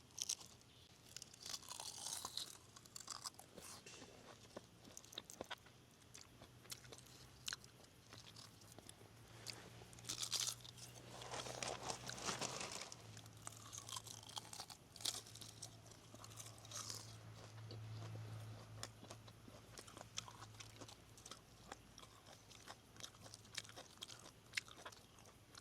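Close-up crunching and chewing of crispy deep-fried rice-paper-wrapped shrimp: irregular crackly bites and chews.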